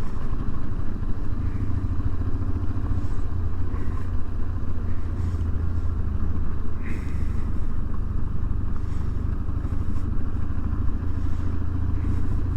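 BMW R1150GSA's boxer-twin engine running steadily as the motorcycle is ridden along a gravel road.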